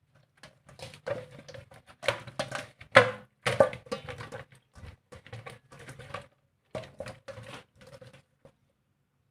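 A quick, irregular run of sharp knocks and clatters, loudest about three seconds in, over a faint low hum; it stops about eight and a half seconds in.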